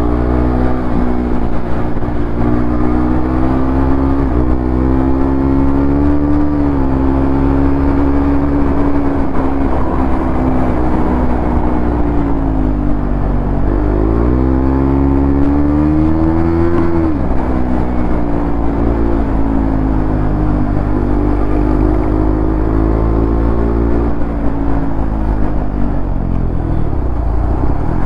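KTM 390 Duke's single-cylinder engine running as the bike rides along. Its note dips about halfway through, rises as the throttle opens, and falls back a few seconds later.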